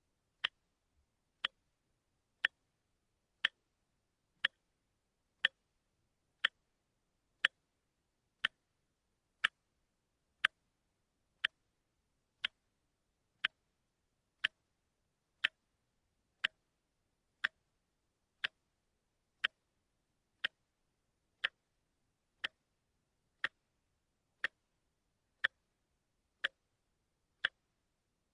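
Watch ticking steadily, one sharp, even click a second with silence between, the second hand stepping like a quartz watch's.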